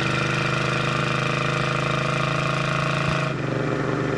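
1971 Plymouth Road Runner's 383 big-block V8 running steadily under way. About three seconds in the sound changes abruptly to a duller, lower drone.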